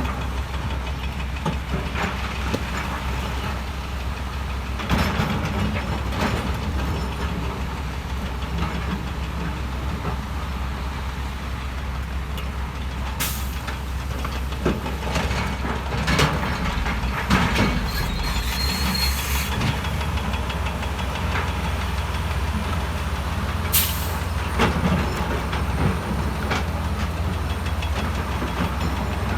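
Heavy diesel earthmoving machinery running steadily, with scattered sharp clanks and knocks of steel and stone and a short hiss about two-thirds of the way through.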